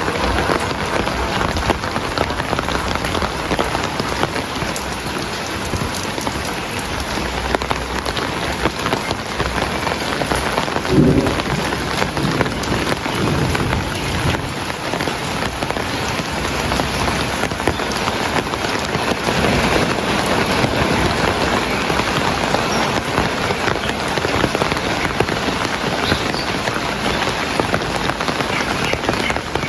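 Heavy rain falling steadily, with a brief low rumble about a third of the way in.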